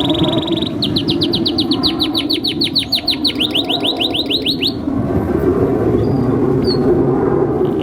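Domestic canary singing: a fast trill, then a long run of repeated high notes, each sweeping downward, about seven a second, which stops about five seconds in, leaving lower warbling.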